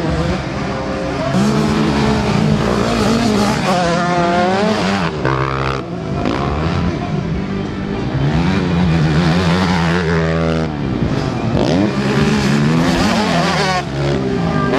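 Several motocross bikes racing, engines revving hard, the pitch climbing sharply as they accelerate and dropping as they shift or back off, over and over.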